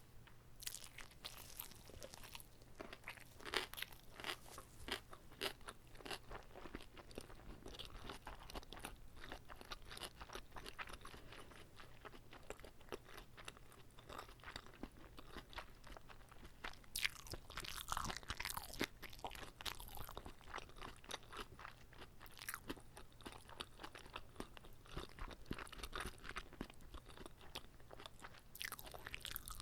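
Close-miked chewing of whole gimbap rolls, a stream of wet crunching and crackling bites with a few louder crunches, over a faint steady low hum.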